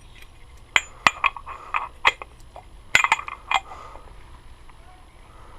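Small metal parts and tools clinking and knocking against each other and a hard surface, a string of about ten sharp clinks over roughly three seconds.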